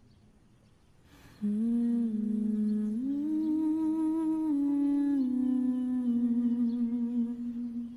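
A voice humming a slow melody without words, in held notes with short glides between them. It starts about a second and a half in and fades near the end.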